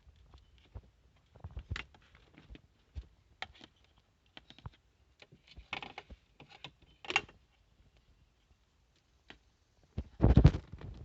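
Scattered, irregular clicks and taps, like handling or typing, with a louder knocking, rustling burst near the end.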